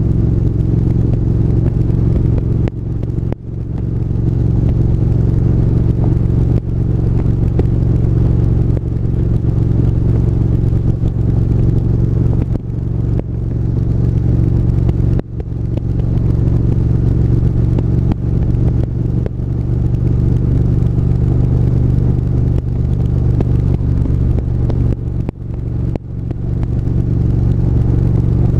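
Triumph 1200 cc parallel-twin motorcycle engine running steadily while the bike is ridden, with brief dips in level a few times.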